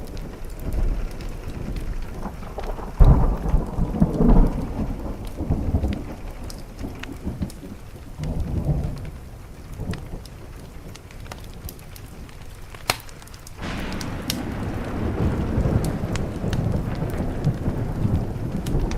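Thunderstorm with rain: low rolling thunder over a steady hiss of rain, with a heavy roll about three seconds in and another building from about two-thirds of the way through. Scattered sharp ticks and pops sit on top.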